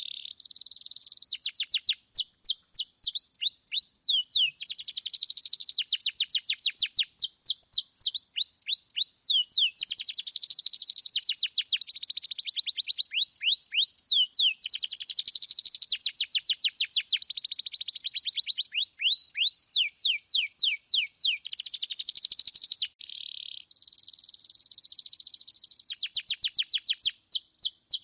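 Domestic canary singing continuously: long rolling trills of fast, repeated downward-sweeping whistled notes, changing from one roll to the next, with a brief break about three-quarters of the way through.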